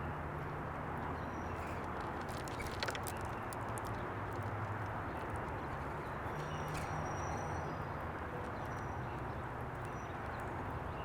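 Bird-feeder ambience: a steady low background rumble with scattered sharp clicks and taps, a cluster of them about a third of the way in, and a few short, high bird chirps from about the middle on.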